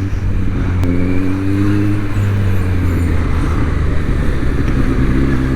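Motorcycle engine running steadily while riding, a steady low drone with small shifts in pitch.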